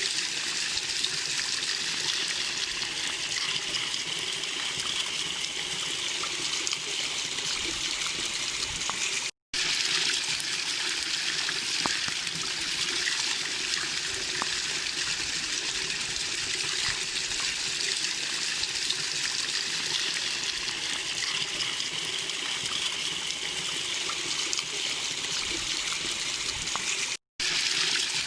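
Small waterfall: water falling and splashing in a steady, even rush, broken twice by a split-second gap of silence.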